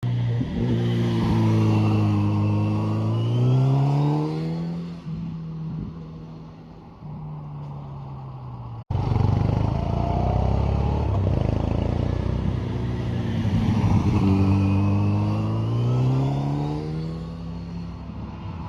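Kawasaki Z900RS inline-four on its stock exhaust, accelerating with the pitch rising for a few seconds, then easing off and dropping. It cuts off abruptly about halfway, then picks up and rises again to a second peak before falling away near the end.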